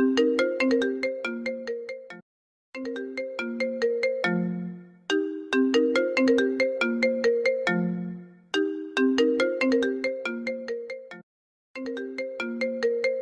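An Apple phone ringtone playing on loop: a repeating melody of rapid, separate notes, with two brief silences where the phrase starts over.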